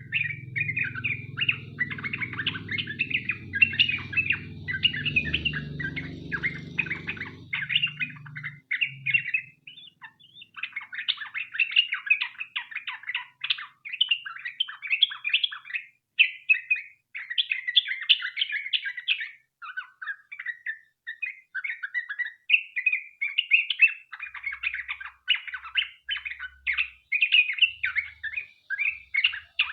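Yellow-vented bulbul (trucukan) singing a long, fast run of chattering, bubbling phrases with only brief pauses. A low rumble sits under the song for the first eight seconds or so.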